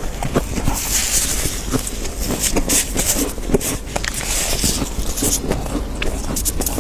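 Fluffy freezer frost crunching: irregular crisp crackles and clicks, with longer scraping hisses about a second in and again around four and a half seconds in.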